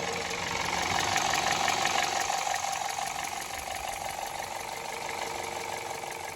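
2015 Toyota Corolla GLi engine running at idle, making the abnormal noise that is the car's reported sound problem; it slowly grows quieter.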